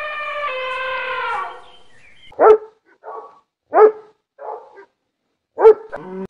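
An animal's long drawn-out call that fades out a little under two seconds in, followed by three loud, short, sharp barks or yelps, with softer rasping sounds between them.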